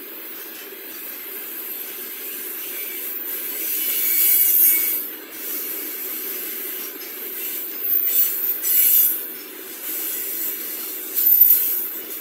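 Freight train wagons rolling past close by with a steady rumble. Loud bursts of high screeching from the wheels come about four, eight and eleven seconds in.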